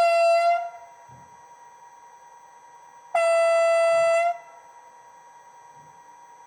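Brawa H0 ET 425 model train's sound decoder playing its horn through the model's small loudspeaker: a short blast, then a longer one about three seconds later, over a faint steady high tone.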